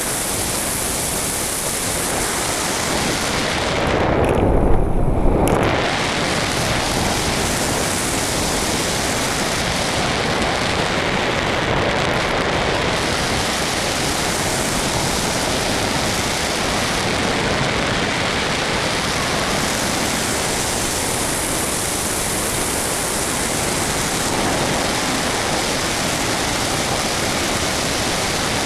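Steady rushing of airflow over a small onboard camera on a radio-controlled model plane in flight. About four seconds in it swells into a brief, louder, deeper buffeting, then settles back.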